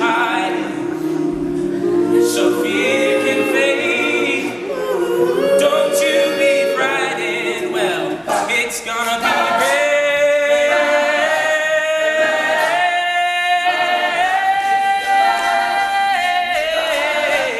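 All-male a cappella group singing, a lead voice over the group's vocal harmonies, with long held notes in the second half.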